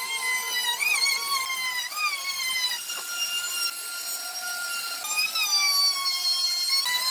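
Electric woodworking power tool cutting wood, running with a high whine whose pitch dips and shifts every second or two as the load changes.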